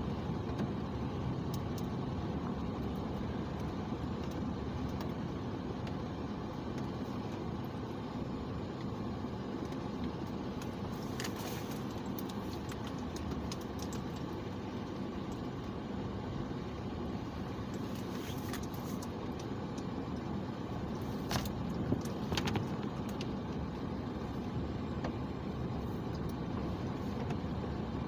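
Steady engine and tyre noise of a car driving, heard from inside the cabin, with a few brief clicks or rattles in the middle.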